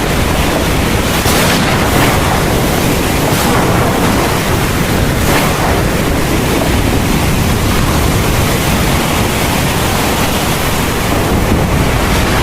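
Heavy thunderstorm rain pouring down steadily, with a few brief louder surges in the first few seconds.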